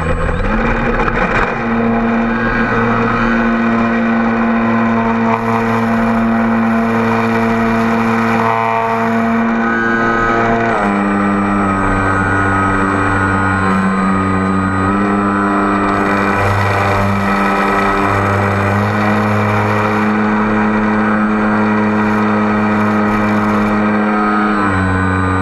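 Multicopter drone's electric motors and propellers running with a steady multi-pitched whine, the pitches jumping up and down every few seconds as the motors change speed to hold the drone against strong, gusty wind.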